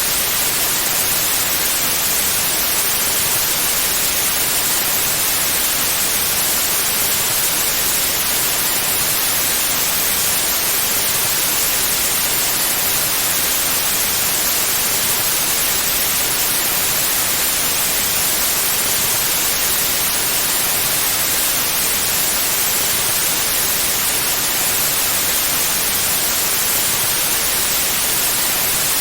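Steady, unchanging white noise: an even hiss across all pitches, brightest in the high end, with no breaks or events.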